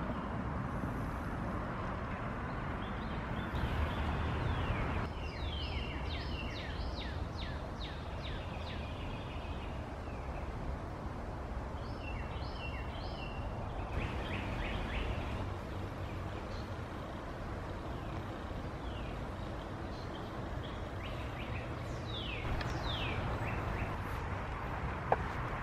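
A bird calling in several bouts of short, quickly repeated, falling notes over a steady low outdoor rumble. A sharp click comes near the end.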